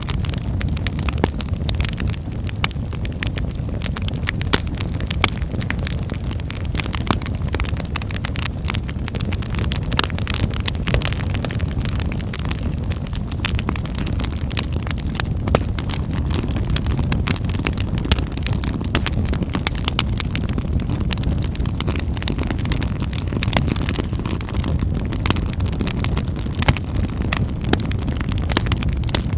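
Wood fire burning in a fireplace: frequent, irregular sharp crackles and pops of the burning wood over a steady low rumble of the flames.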